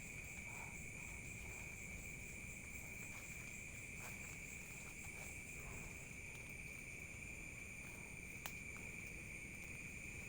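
Night insect chorus: crickets trilling steadily in an even, high-pitched drone, with a single sharp click about eight and a half seconds in.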